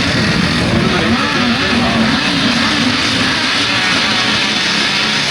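Grasstrack sidecar outfits' motorcycle engines revving, their pitch rising and falling unevenly.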